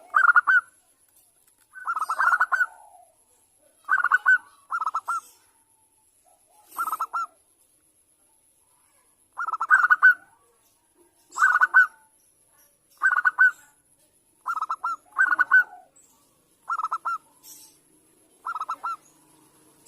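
Zebra dove (perkutut) calling: about a dozen short, rapid staccato cooing phrases repeated every second or two, with a pause of about two seconds near the middle. It is a female's call to a male.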